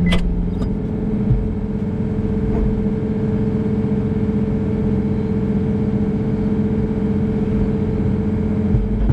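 John Deere 333E skid steer's diesel engine running steadily at a constant speed.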